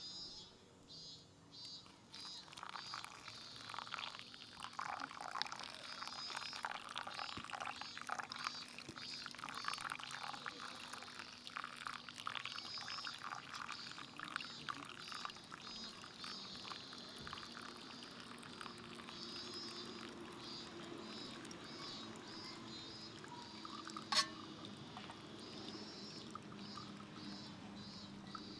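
Liquid being poured and splashing during camp cooking, with a single sharp click about 24 seconds in.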